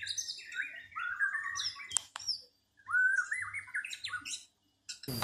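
A songbird singing two quick phrases of chirping notes, each about two seconds long, with a short pause between them.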